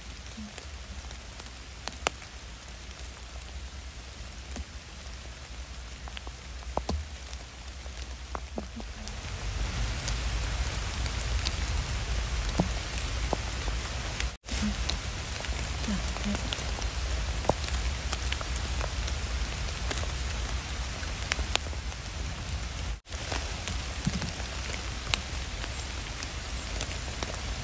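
Steady rain falling, with scattered drops pattering close by; it grows heavier about nine seconds in.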